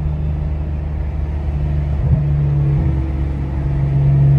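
BMW turbocharged straight-six engine running at steady revs while cruising, with a brief dip about two seconds in.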